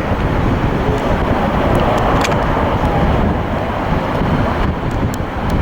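Steady loud rumble with wind buffeting the microphone, swelling a little in the middle, with a few faint clicks.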